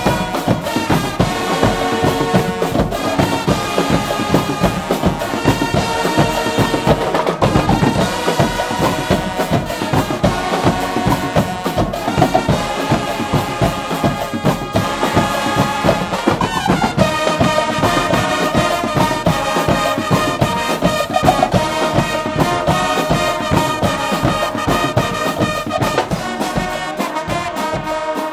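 Guggenmusik band playing: a loud brass section of trumpets and trombones carrying the tune over a driving drum beat.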